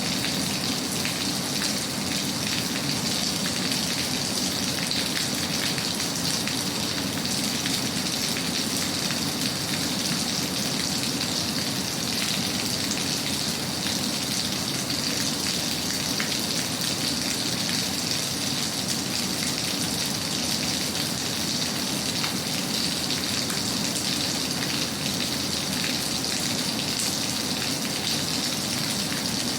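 Steady rain falling: an even hiss of countless small drops hitting a surface, unchanging throughout.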